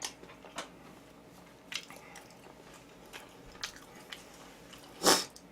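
A person eating close to the microphone: a few scattered sharp clicks of biting and chewing, with one louder, short noisy burst about five seconds in.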